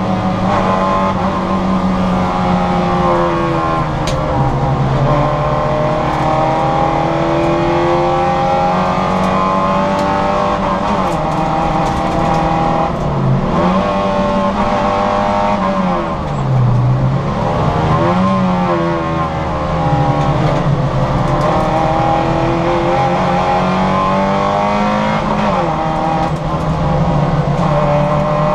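Citroën Saxo VTR race car's four-cylinder engine running hard on track. The revs climb steadily through long pulls and drop sharply several times in the middle as the driver brakes and changes down, then climb again.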